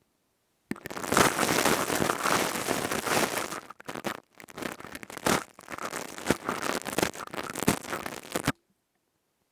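Close-miked ASMR crystal-tube trigger sounds: dense crackling and scratching right at the microphone, starting under a second in and stopping abruptly near the end, with a brief break about four seconds in.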